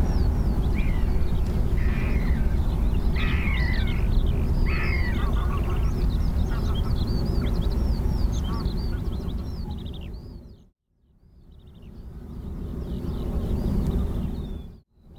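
Birds calling and chirping over a steady low rumble. The sound fades out about two-thirds of the way through, fades back in, and cuts out briefly near the end.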